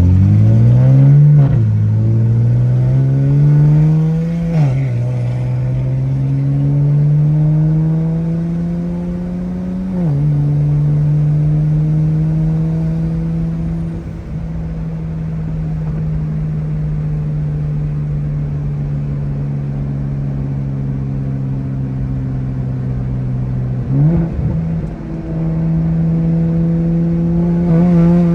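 Single-turbo BMW N54 inline-six accelerating hard through the gears, its pitch climbing and then dropping at each upshift, about 1.5, 5 and 10 seconds in. It then holds nearly steady, gives a brief blip near the end and starts climbing again.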